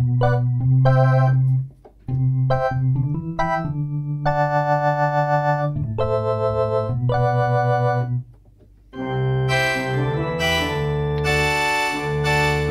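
Yamaha PSR-175 home keyboard playing an organ-like preset voice in held chords over bass notes, with a steady wavering pulse in the middle notes. About eight seconds in it falls silent briefly, and a brighter, fuller preset voice starts.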